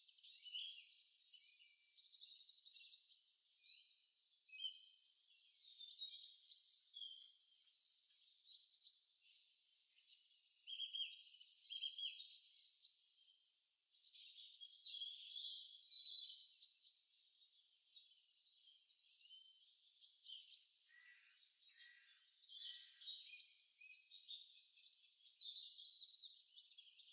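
Small birds chirping and trilling, a thin high-pitched chorus with several louder rapid trills that come and go.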